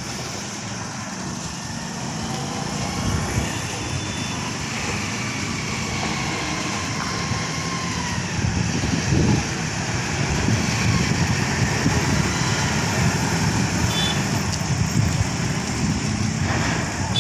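Road traffic noise with heavy truck engines running and tyres on the road, growing louder over the second half.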